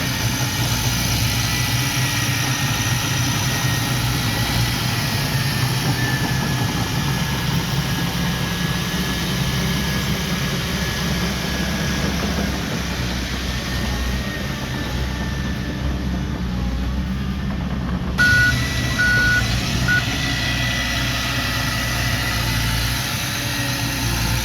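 Heavy earthmoving machine's engine running steadily under load, with a thin whine above the low hum. About three-quarters of the way in, three short beeps from a reversing alarm sound.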